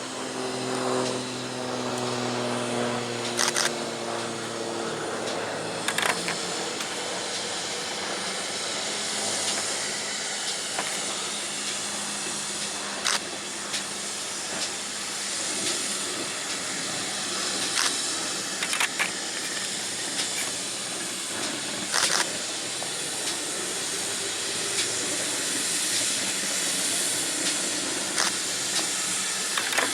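Steam locomotive hissing steadily, with a few sharp clicks scattered through. At the start several pitched tones glide slowly downward and fade out within the first few seconds.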